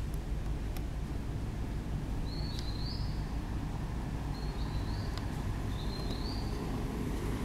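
A bird calling three times with short, high, two-step rising phrases over a steady low outdoor rumble.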